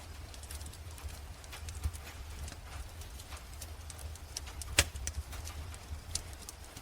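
Wood fire crackling in a fireplace: irregular sharp snaps and ticks, with one louder pop just before the five-second mark, over a steady low rumble.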